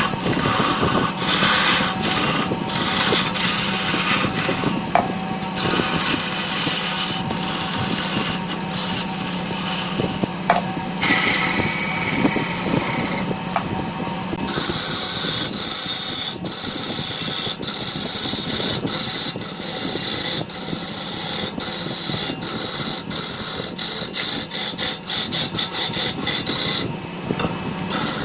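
Large wood lathe running, with a steady motor hum, as a tool cuts into the spinning wood with a hissing scrape. From about halfway in, the cutting turns choppy, with many brief breaks as the tool touches and leaves the wood.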